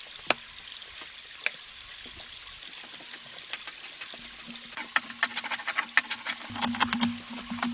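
Rain pattering and dripping, with sharp drip ticks that come thicker in the second half. A low steady hum joins about halfway through.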